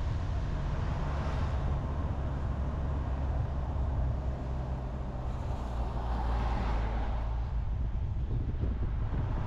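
Car driving on a highway: steady low rumble of engine and tyres on the road with wind noise, and a whoosh that swells and fades about six seconds in.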